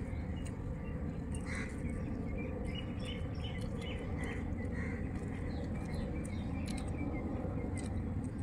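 Small birds chirping in short calls over a steady low background rumble, with scattered faint clicks.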